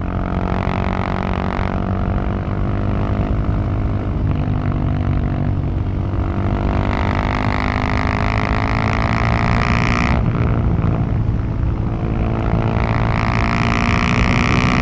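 Husqvarna 701 supermoto's single-cylinder engine under acceleration, heard from the exhaust. The engine pitch climbs, falls abruptly about ten seconds in, then climbs again to the end.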